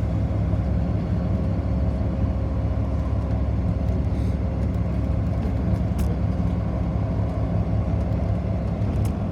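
Steady low rumble of a city bus's engine and running gear, heard from inside the passenger cabin, with a faint steady hum. Two short clicks or rattles come about six and nine seconds in.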